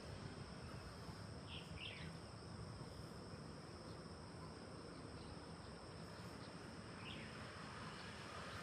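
Forest ambience: a steady, high-pitched drone of insects, with a few short descending chirps from a bird around two seconds in and again near the end.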